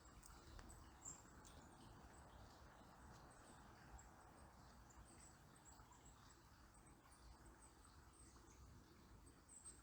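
Faint, very high-pitched bird chirps, many short calls scattered throughout, over the soft steady hiss of a river.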